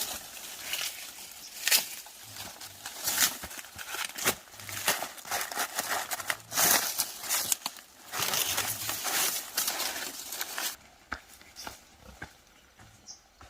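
Crinkling, rustling handling noise with many sharp clicks and snaps, which drops to much quieter about eleven seconds in.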